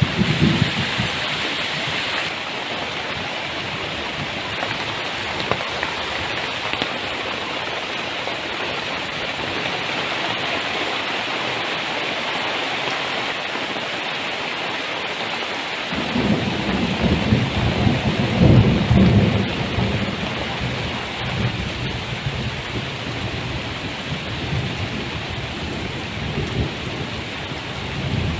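Heavy tropical rain pouring steadily. Thunder rumbles low about halfway through, swelling for a few seconds and then fading.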